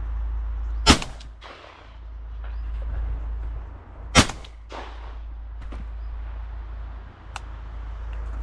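Two shotgun shots about three seconds apart, each a sharp crack followed by a short fading echo.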